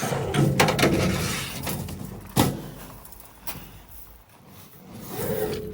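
Wind gusting across the microphone, strongest in the first half, with a few sharp knocks and clatters, the loudest about two and a half seconds in.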